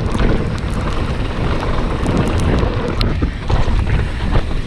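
Wind buffeting the microphone of a mountain bike's onboard camera on a fast descent, a steady low rumble, with the rattle and knocks of the bike and its tyres over rough, wet trail.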